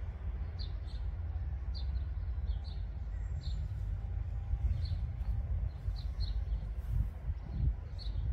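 A small bird chirping repeatedly, short high chirps coming every half second to a second, over a steady low rumble.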